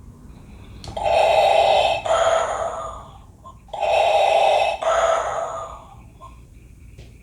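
Darth Vader Funko Pop bobblehead's built-in sound chip playing lightsaber sound effects twice, each lasting about two seconds and fading out, the first about a second in and the second a little before the middle.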